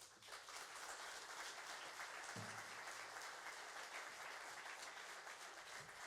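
Audience applause at the end of a song: steady clapping from a crowd, starting as the music dies away.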